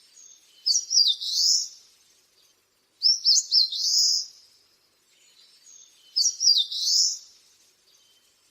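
Eastern crowned warbler singing three songs a couple of seconds apart. Each is a few quick high notes ending in a longer slurred note, the phrase rendered in Japanese as "shōchū ippai guii".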